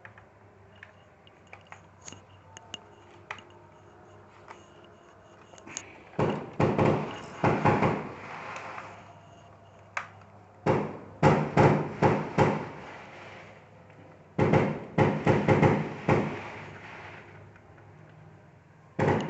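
Screwdriver backing screws out of a plastic laptop case: three bursts of rapid clicking and scraping, each a few seconds long, after a few faint ticks.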